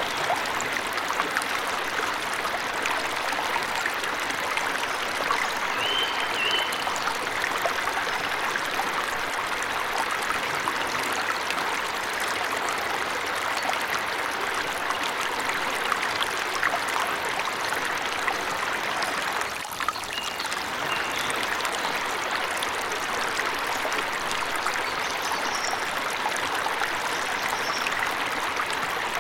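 Forest waterfall rushing steadily, with a few short, faint bird chirps above it.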